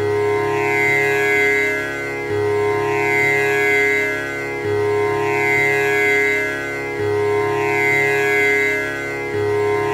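Tanpura drone: the four strings are plucked in a repeating cycle that restarts about every two and a half seconds, each note ringing on with the instrument's buzzing overtones.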